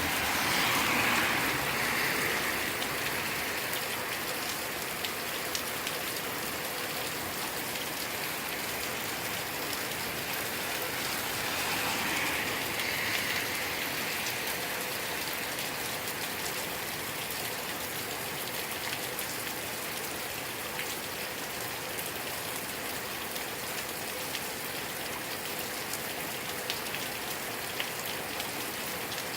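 Steady rain from a passing squall line, with many individual drops ticking on a hard surface. The rain noise swells briefly near the start and again about twelve seconds in.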